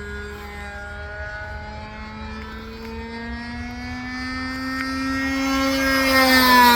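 Radio-controlled model biplane's engine running as the plane makes a flyby: the drone grows louder and slightly higher in pitch as it approaches, then drops in pitch as it passes near the end.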